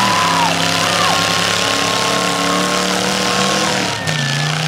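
Demolition derby car engines running loud and rough, holding steady revs that step up and down in pitch, with a single knock about four seconds in.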